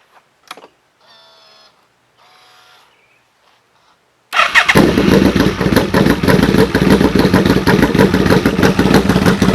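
1995 Yamaha VMAX 1200's V4 engine being started: a click and two brief faint whirs, then about four seconds in the engine fires and runs steadily through its dual exhaust.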